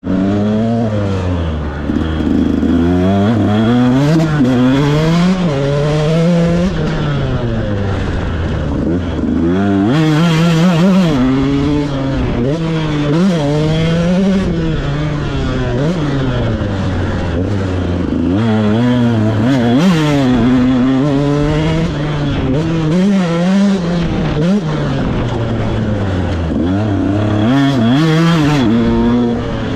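KTM SX 125 motocross bike's single-cylinder two-stroke engine revving hard, its pitch climbing and dropping over and over as the throttle is opened and closed.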